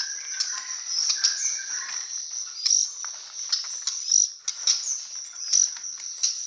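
Caged songbirds chirping and fluttering over a steady, high cricket trill, with short chirps and many quick clicks and flutters scattered through it.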